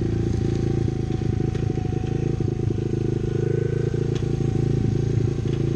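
Apollo pit bike's small single-cylinder four-stroke engine running at a steady pace while being ridden, with light rattles.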